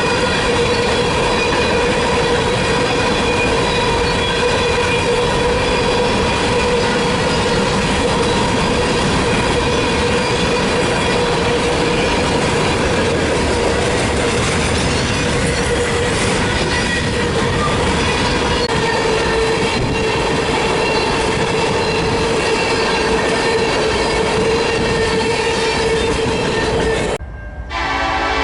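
A train rolling past at a rail junction, with a steady, high-pitched squeal that holds one pitch throughout. Near the end the sound cuts off abruptly and gives way to several steady tones together.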